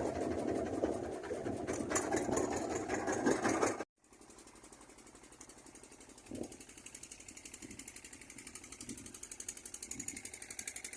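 An engine running with a fast, even beat. It is loud and rough at first, cuts off abruptly about four seconds in, then comes back much quieter and slowly grows louder.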